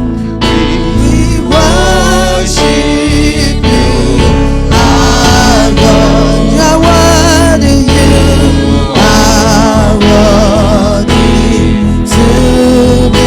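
Gospel praise music with a lead singer and choir singing over a band with a steady bass and beat.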